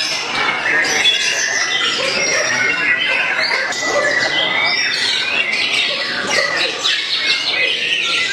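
White-rumped shama (murai batu) singing a fast, varied run of chirps, whistles and harsh notes without pause, with other birds' songs overlapping densely.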